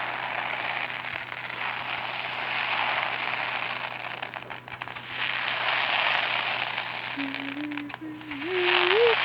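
Crackling fireworks: dense crackle from bursting stars that comes in three waves, with a few sharper pops between them.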